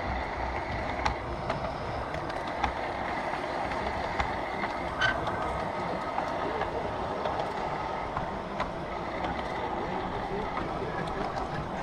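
G-scale garden railway model train running along the track: a steady running and gear noise with a faint whine, broken by scattered sharp clicks from the wheels on the rails.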